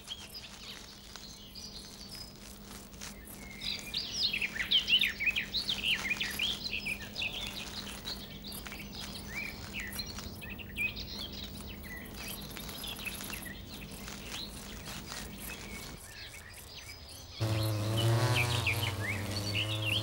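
Small birds chirping and twittering in many quick high notes, busiest in the first half, over a faint steady hum. A low steady buzz cuts in abruptly near the end.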